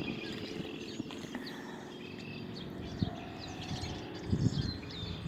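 Several small birds chirping and calling, with many short high notes and slurs overlapping, over a steady low hum.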